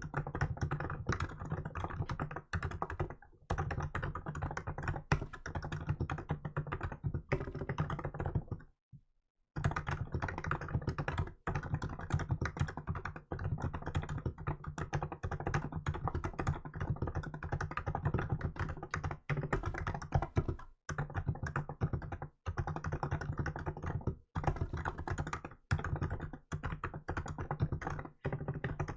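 Continuous typing on a Hansung GK868B electrostatic capacitive keyboard with milk keycaps: fast runs of keystrokes, with one pause of about a second in the first third and a few shorter breaks.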